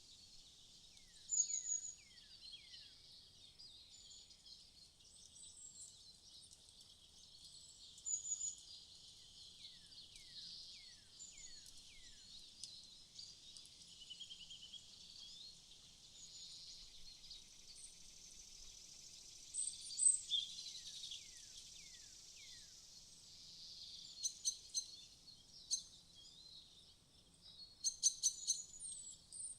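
Cartoon morning ambience: birds chirping and twittering over a steady high hiss of insects. Quick downward-sweeping chirps come in little runs of about four, and several short, louder bird calls rise above the background every several seconds.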